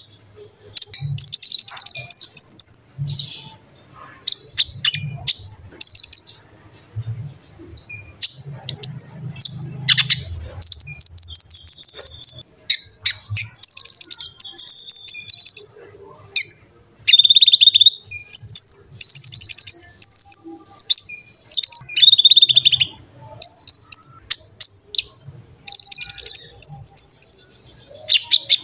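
Konin (kolibri ninja) sunbird singing in rapid, high-pitched bursts: fast chattering trills and sharp upward-flicked chips, phrase after phrase with short pauses. Soft low thuds sit under the song in the first half.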